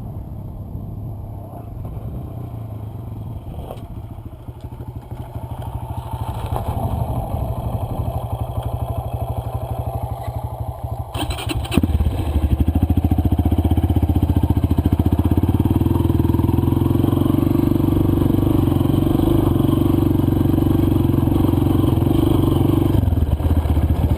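Dirt bike engine running, quieter at first, then much louder and steady under throttle from about halfway through.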